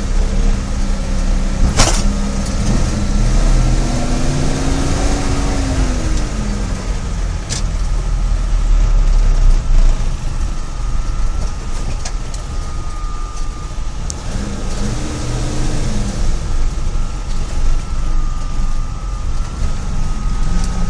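GAZ-66 truck's rebuilt V8 petrol engine running with its fan loud over it, the engine note rising and falling twice, about four and about fifteen seconds in. A sharp click about two seconds in.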